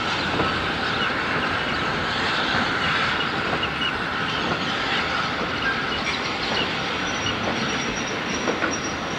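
Steam-hauled passenger train rolling past with a steady rumble and wheels clicking over the rail joints. A thin, high, steady wheel squeal joins in about six seconds in.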